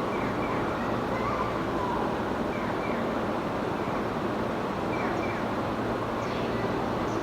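Steady running noise of a commuter train, an even rumble with a few faint short falling squeaks.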